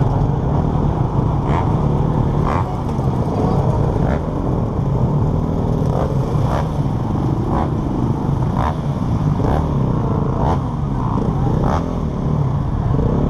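Motocross bike engine running at low revs, heard from on board, its pitch rising and falling gently with small throttle changes. Irregular sharp ticks or knocks come about once a second.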